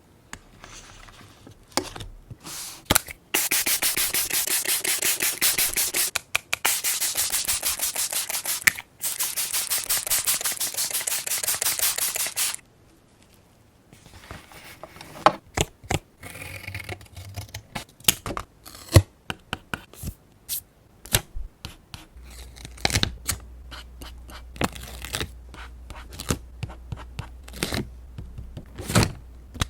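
Close-up paper-craft handling: fast, even rubbing strokes on paper in three long stretches, then scattered light taps, clicks and paper handling.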